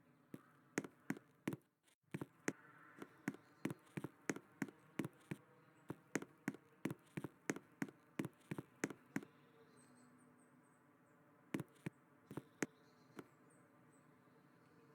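A series of sharp clicks or taps, about two a second for the first nine seconds, then a few more a little later, over a faint steady hum.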